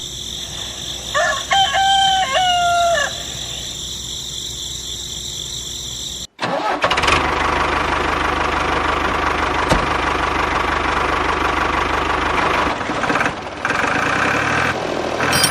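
A rooster crows once, a two-second crow over a steady high hiss. After an abrupt cut, a loud, dense rushing noise takes over and runs to the end.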